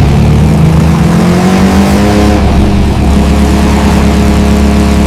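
Carrera Digital slot car running, its motor whining loudly: the pitch rises over the first two seconds or so, then holds steady.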